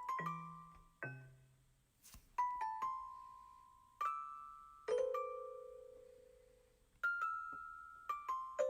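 Electronic keyboard music with a bell-like tone: slow, unhurried single notes and pairs, each struck and left to ring out and fade, with pauses of near quiet between them.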